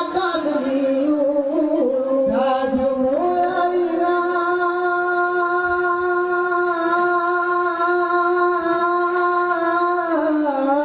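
A single high singing voice chanting a Saman song, stepping up in pitch in the first few seconds and then holding one long steady note before sliding down near the end.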